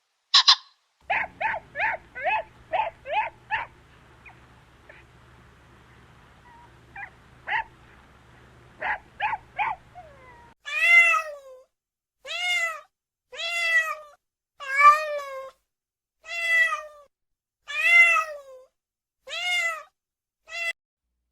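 Cat meowing over and over. First comes a quick run of short mews over a faint hum. Then, after a cut, about ten longer meows at an even pace, each falling in pitch at the end.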